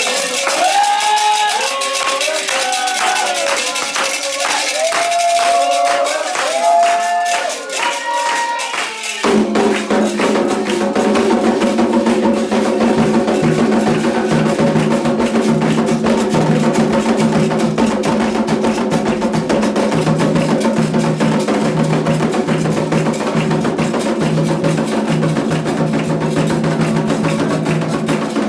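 Candomblé ritual song for Xangô: a voice sings over a shaken rattle, then drums come in about nine seconds in and keep up a steady, dense beat.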